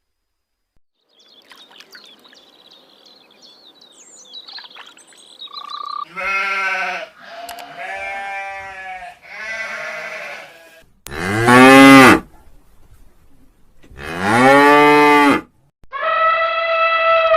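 Farm livestock calling: six separate drawn-out calls, some with a wavering pitch and some rising then falling, the loudest about two-thirds of the way through. Before them, a few seconds of faint background noise with thin high chirps.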